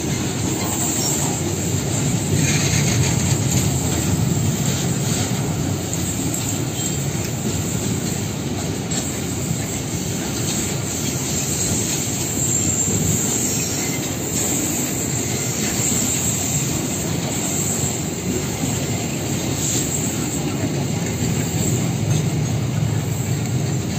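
Tank wagons of a fuel tanker freight train rolling slowly past: a steady rumble of steel wheels on the rails, with scattered clicks at the rail joints and a thin, high wheel squeal.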